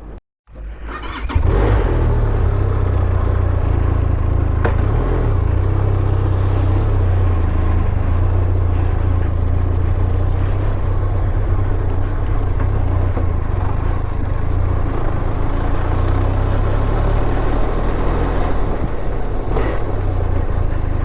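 Benelli TRK 502 parallel-twin motorcycle being ridden at a steady, easy pace, the engine running with a deep, even drone and wind noise over the microphone. The sound comes in about a second in and holds steady.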